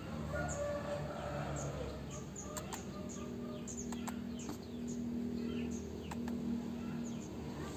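Small birds chirping: short high chirps about twice a second, with a few sharp clicks among them, over a low steady hum in the middle.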